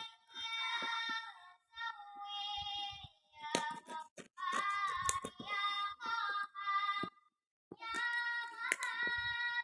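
A very high-pitched singing voice carrying a tune in short phrases of held notes, with brief breaks between them. A few sharp clicks or knocks fall in the middle of it.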